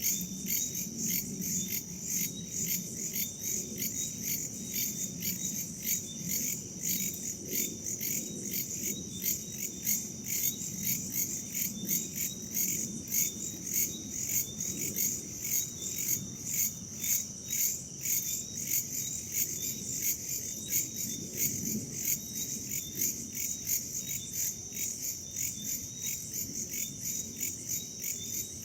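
Crickets and other insects chirping in a steady, even pulse of about two to three beats a second, over a soft low rush of wind.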